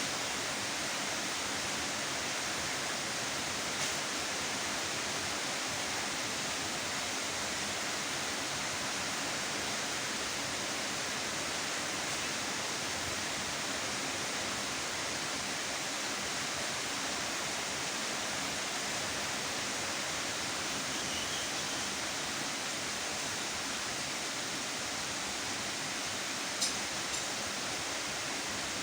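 Steady, heavy rain falling, an even rushing hiss, with a couple of brief sharper ticks around four seconds in and near the end.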